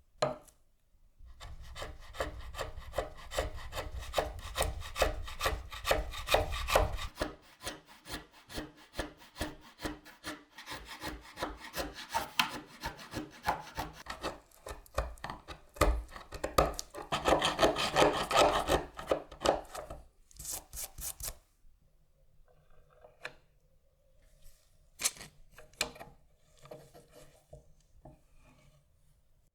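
A hand tool working wood in quick, even back-and-forth strokes, a rasping rub repeated many times over. It then gives way to a few scattered clicks and knocks.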